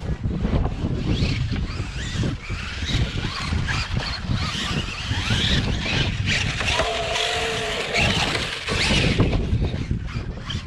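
Radio-controlled monster trucks running, their motors whining up and down in pitch over a rumble of tyres and chassis.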